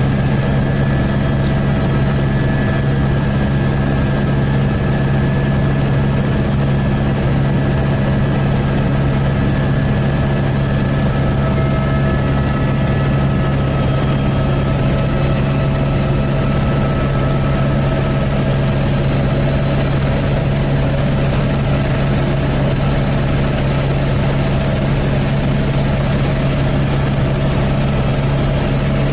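Helicopter cabin noise in cruising flight: the steady drone of the engine and rotors, a constant deep hum with several fixed whining tones above it.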